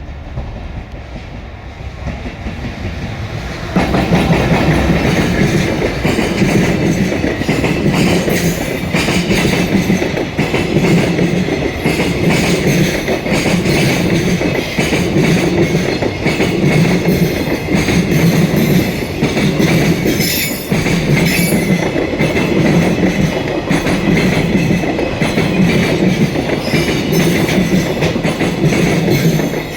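A train passing close by, its wheels clattering rhythmically over the rail joints. The sound builds for a few seconds and jumps up sharply about four seconds in as the train reaches the crossing.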